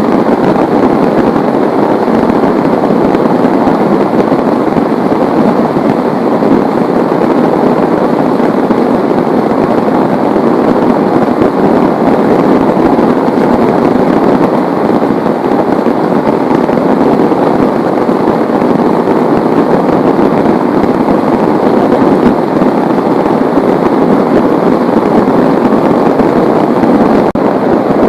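Heavy rain pouring down steadily, a loud, dense, even hiss of countless drops.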